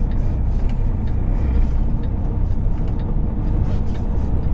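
Semi-truck engine and road noise heard from inside the cab while driving: a steady low rumble.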